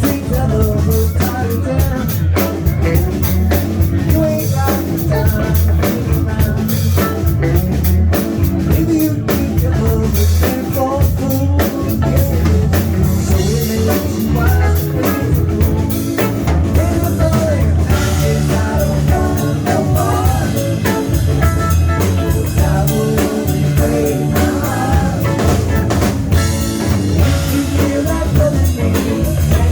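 Live band playing: drum kit keeping a steady beat under guitar and bass.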